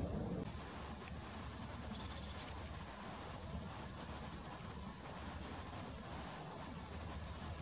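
Faint, thin, high-pitched calls of small songbirds: short notes and a few brief whistled glides scattered throughout, over a low steady background rumble.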